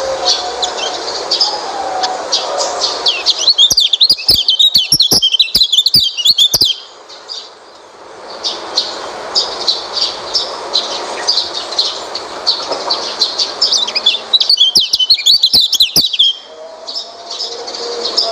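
White-eye (pleci) birdsong: a steady run of high, quick chirps, broken twice by a fast, dense twittering song phrase, one about three seconds long starting some four seconds in and a shorter one about fifteen seconds in.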